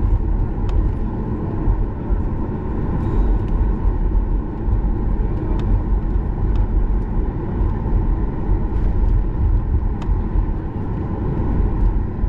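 Steady low rumble of a Boeing 737 MAX 8's cabin on the ground after landing, with a faint steady hum and a few faint clicks.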